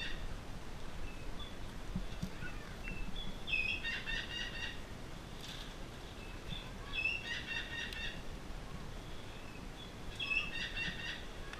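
A bird calling three times, a few seconds apart; each call is a rapid trill of notes about a second long.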